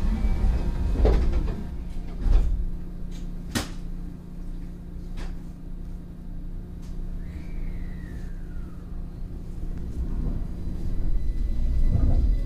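Station platform sound beside a stationary train: a steady low hum that stops near the end, several sharp knocks and thumps in the first five seconds, and a brief falling whine about seven seconds in.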